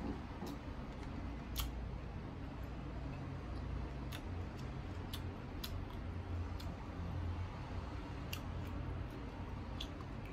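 Chewing of crisp unripe green mango slices: scattered sharp crunches and mouth clicks, over a low steady hum.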